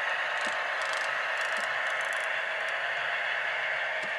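Tsunami sound decoder in an HO-scale Athearn MP15 model diesel locomotive playing its engine sound through the tiny onboard speaker: a steady, hissy drone with no bass.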